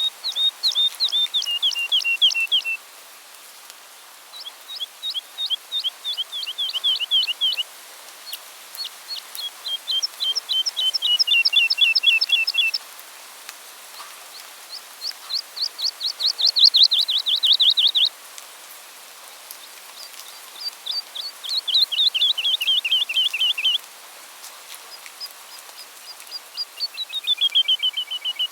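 A songbird singing six trilled phrases, each a rapid run of about ten short notes a second lasting three to four seconds, with pauses of a second or two between them; several phrases drop in pitch partway through.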